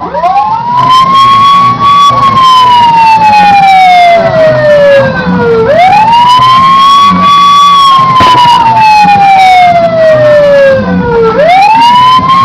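A siren wailing loudly. Each cycle rises quickly in pitch, then falls slowly over several seconds, repeating about every five and a half seconds. Scattered faint crackles sound beneath it.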